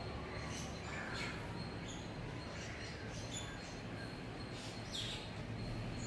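Birds chirping in the trees: short, high calls come every second or so, some falling in pitch, over a steady low hum.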